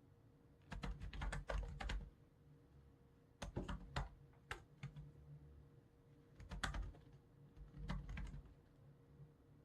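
Typing on a computer keyboard: about four short bursts of quick keystrokes with pauses between them, over a faint steady hum.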